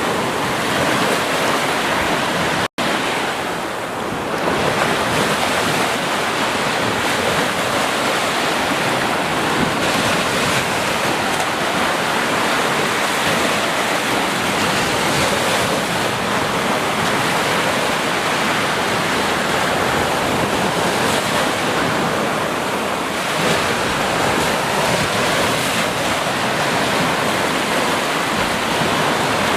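Ocean surf breaking and washing on a beach, a steady rush of waves, with a split-second dropout about three seconds in.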